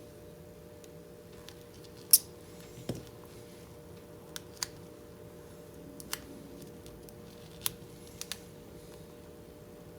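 Scattered sharp clicks and ticks of small handwork, about a dozen, irregularly spaced. The loudest comes about two seconds in, over a faint steady hum.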